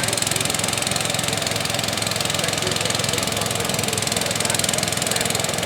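Small garden tractor engine running steadily with a fast, even firing beat.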